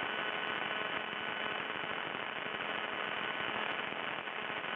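Steady background noise of a Cessna 150 Aerobat in flight, heard through the headset intercom feed: a muffled, narrow-sounding engine drone under faint hiss and crackle from the radio.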